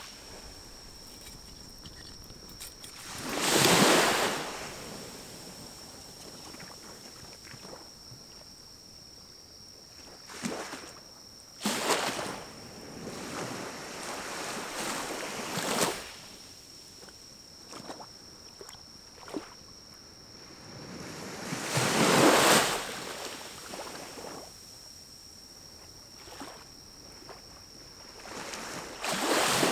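Small pinecone fire in a wood-burning camp stove, with scattered sharp crackles and pops. Four loud whooshes of noise swell up and die away over a second or two each: about 4 seconds in, around 12 to 16 seconds, around 22 seconds, and near the end.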